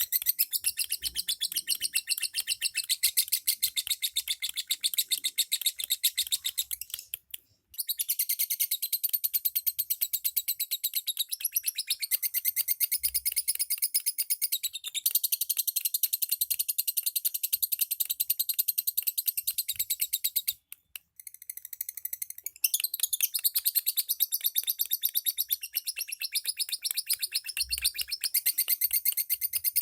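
Lovebirds chattering: a rapid, unbroken stream of high chirps that breaks off briefly twice.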